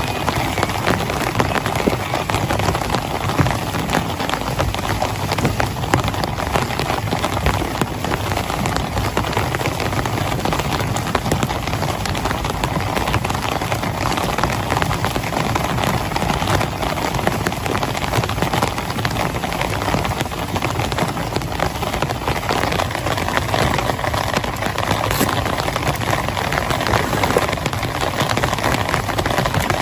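Heavy rain falling steadily, a dense patter of drops without let-up.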